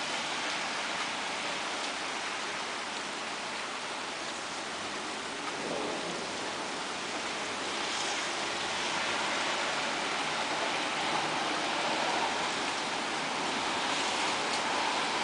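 Steady rain falling, an even hiss with no distinct drops standing out, growing slightly louder about halfway through.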